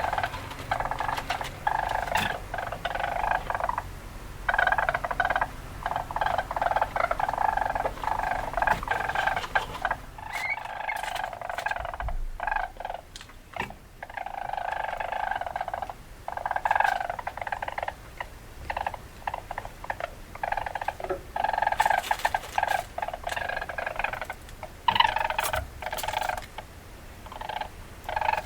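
Weasel calls: rapid chattering and squeaking in bursts, with brief pauses between them.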